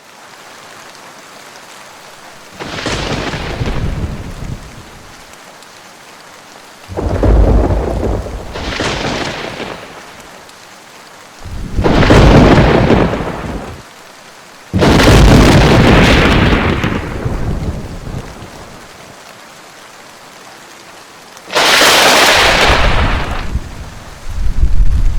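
Simulated thunderstorm audio: about six thunderclaps, each a loud rumble lasting a couple of seconds, over a steady hiss of rain. The one about fifteen seconds in starts sharply and fades slowly. The thunder is synthesized from a recorded thunder sample by an approximative acoustic model driven by the storm simulation.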